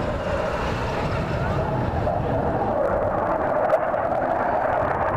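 Aircraft engine noise from a plane at the air show, a steady sound whose pitch drifts slightly upward, with a brief click about three and a half seconds in.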